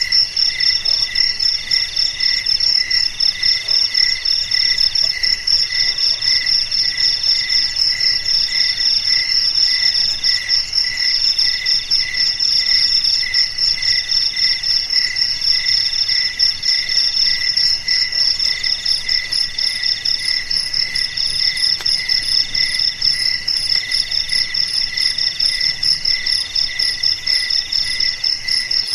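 Several crickets chirping at once in a steady chorus: a dense high trill over a slower, regular chirp at about two to three pulses a second, with another chirping in roughly one-second bursts.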